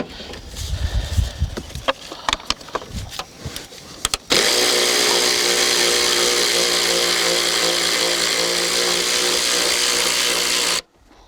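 A few clicks and knocks of a socket being fitted, then about four seconds in a cordless power tool starts and runs steadily for about six seconds, spinning out a 14 mm bolt, and stops abruptly.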